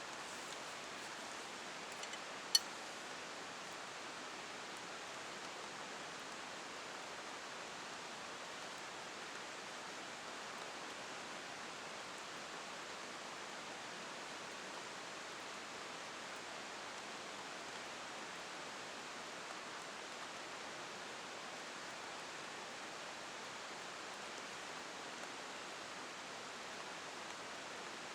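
Steady hiss of heavy rain falling. About two and a half seconds in there is one sharp click, preceded by a fainter double click.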